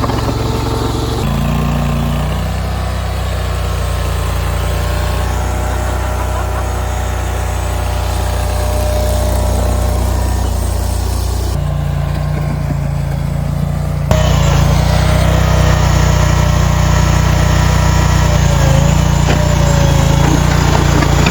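Small gasoline engine of a mini skid steer loader running steadily, with a low, even hum. It steps up abruptly and gets louder about two-thirds of the way through.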